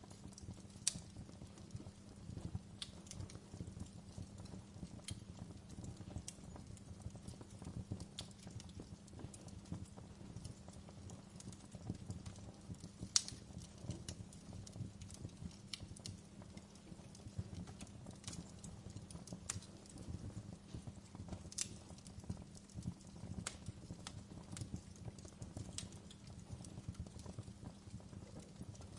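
Wood fire burning in a fireplace: irregular crackles and sharp pops, one louder pop about halfway through, over a steady low rumble of the flames.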